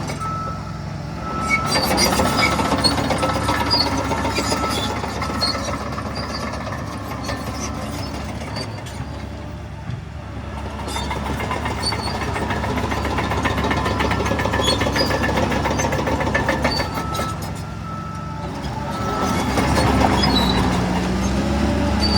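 Heavy diesel earthmoving machinery running under load, its engine swelling and easing every few seconds over a fast, continuous rattle, with the engine pitch rising slightly near the end.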